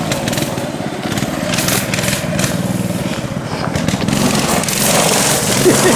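A vehicle engine running steadily at a fairly even level, with a constant low hum.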